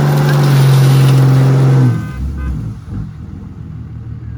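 Diesel pickup truck engine held at a steady high rev for about two seconds, then dropping suddenly back to a low rumble.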